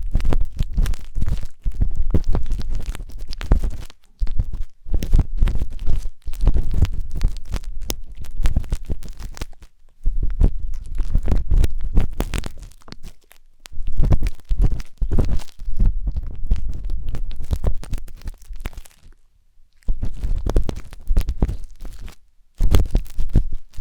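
Wooden skewer scraping and rubbing inside the silicone ear of a 3Dio binaural microphone, heard close up: a dense crackle of scratches over a deep rumble. It stops briefly twice near the end.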